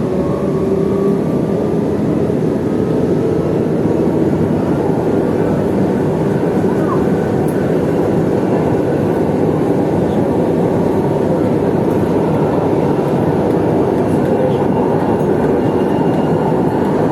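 MRT-3 light rail train running, a steady rumble of wheels and motors.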